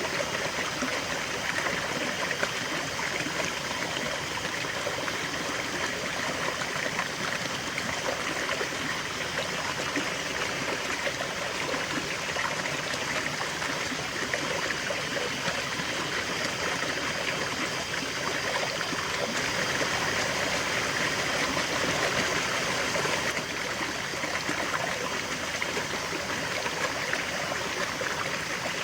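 River water flowing and babbling over rocks, a steady rushing with fine trickling and gurgling detail. It swells slightly for a few seconds past the middle.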